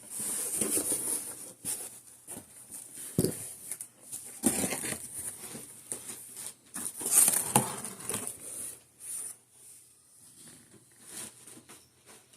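Cardboard box and packing material being handled during an unboxing: irregular rustling and crinkling with a sharp knock about three seconds in, louder bursts around the middle, then quieter handling near the end.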